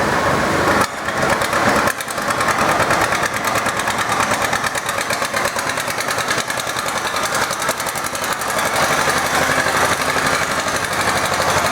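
A farm tractor's engine running hard under load as it pulls the deadweight sled down the track, a steady rapid firing rhythm.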